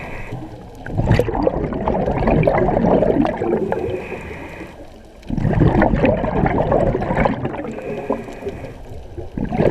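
Scuba diver breathing through a regulator underwater. Each short hiss of an inhale is followed by a long, crackling rush of exhaled bubbles, about every four seconds.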